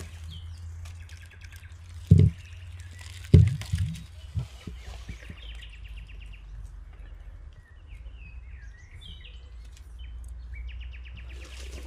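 Birds chirping and calling, with short repeated notes and quick glides. Two dull thumps come about two and three and a half seconds in, over a steady low rumble.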